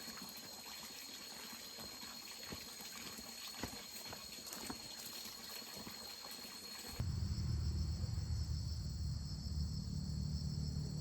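Running water trickling and splashing with small drips, under a steady high insect trill. About seven seconds in it cuts suddenly to loud crickets over a low hum.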